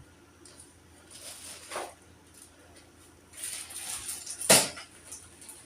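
Rustling and clatter of household items being handled and moved, in two spells, with one sharp knock about four and a half seconds in.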